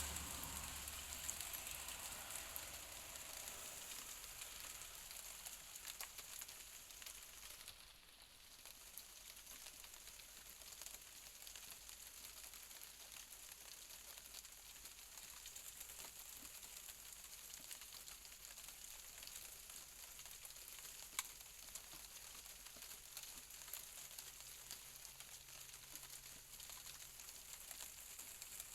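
Light rain falling, a steady soft hiss with scattered drips ticking. A low rumble of thunder dies away over the first few seconds.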